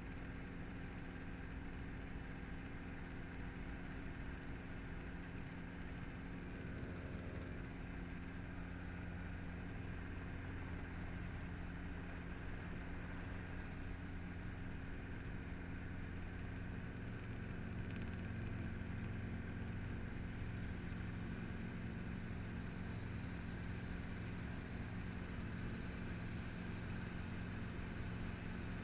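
Helicopter engine and rotor running: a steady drone with several steady low tones, growing slightly louder about two thirds of the way through.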